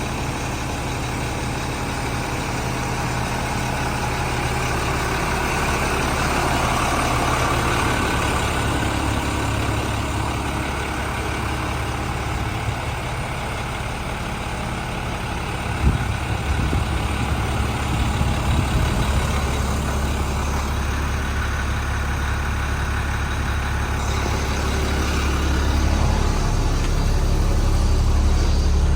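The 2003 International school bus's DT466E diesel engine idling steadily, with a single sharp knock about halfway through. It gets a little louder near the end.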